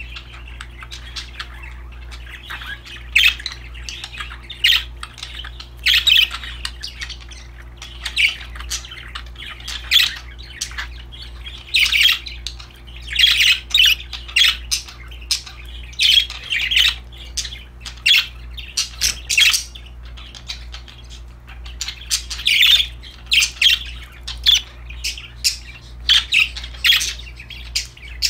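Budgerigars chirping and squawking: many short, high calls in quick, irregular succession, over a steady low hum.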